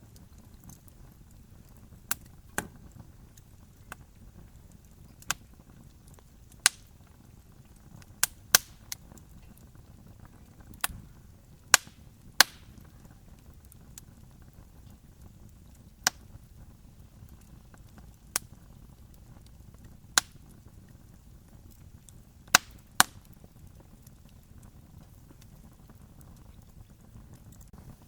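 Campfire crackling: irregular sharp wood pops and snaps, about one every one to two seconds and varying in strength, over a faint steady low rumble.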